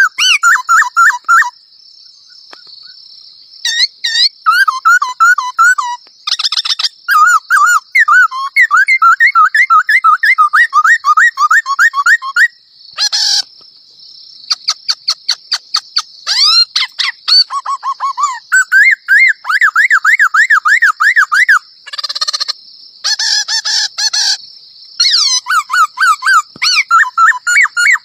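A songbird singing loud, fast runs of repeated whistled notes in phrases broken by short pauses, over a steady high-pitched buzz.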